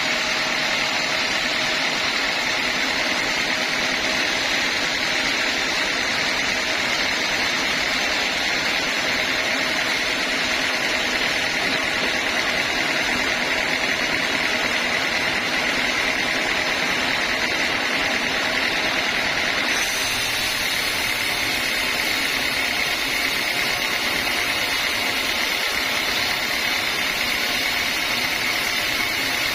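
Homemade band sawmill running with a steady mechanical drone and whine, unbroken throughout, turning slightly brighter about twenty seconds in.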